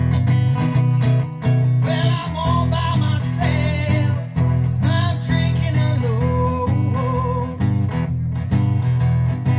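Live solo acoustic set: acoustic guitar strummed under a man singing, his voice coming in about two seconds in.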